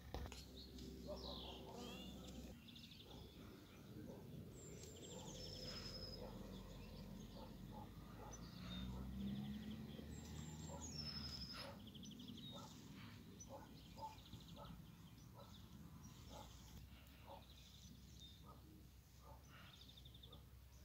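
Faint outdoor ambience of small birds singing, with one bird twice giving a phrase that ends in a falling whistle, over a steady low rumble.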